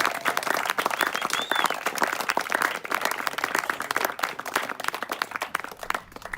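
A small group of people applauding, many hands clapping at once, the clapping dying away near the end.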